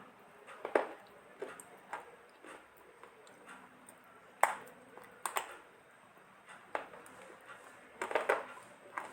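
Dry multani mitti (Fuller's earth clay) crunching in short sharp cracks, about seven of them at irregular intervals, with a quick cluster near the end.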